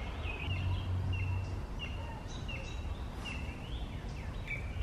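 A songbird calling over and over, short high chirps about twice a second, over a low steady background rumble.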